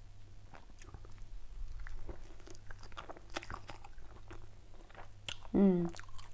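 A person biting into and chewing a soft white-bread crab-stick sandwich, with many small wet mouth clicks over a low steady hum. Near the end there is a brief voiced hum of appreciation, the loudest sound.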